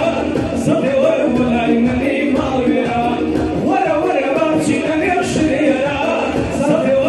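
Music with a voice singing a melody.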